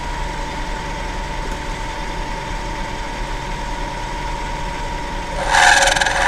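Milling machine spindle running at speed with a steady whine, then, near the end, the end mill biting into the workpiece on a light edge-milling pass with a sudden, much louder cutting noise.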